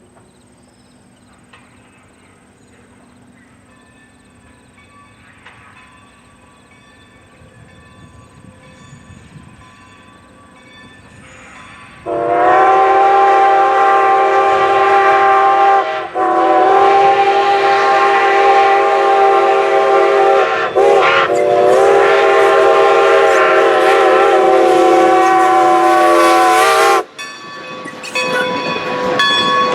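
Steam whistle of Norfolk & Western J-class locomotive 611, blown in one long loud blast about twelve seconds in and broken briefly twice. After it cuts off, the noise of the passing train builds.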